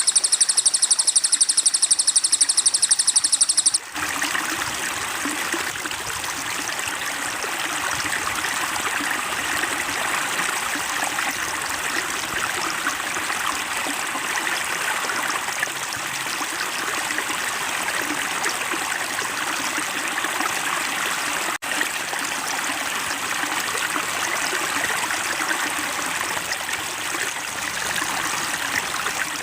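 A recorded songbird gives a fast, evenly pulsed high trill that cuts off abruptly about four seconds in. Steady running water follows, a stream flowing and trickling, with a momentary break about three-quarters of the way through.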